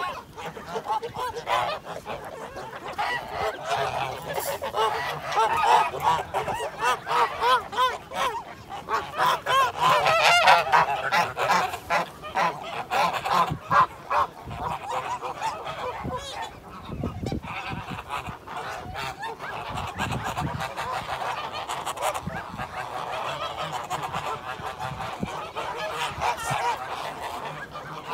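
A flock of birds calling, many short calls overlapping without a break, loudest and densest in the first half.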